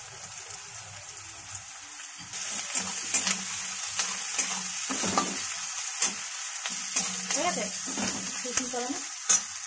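Chopped onions, garlic, ginger and green chillies sizzling in mustard oil in a kadai, stirred with a metal spatula that scrapes and clicks against the pan. The sizzle grows louder about two seconds in.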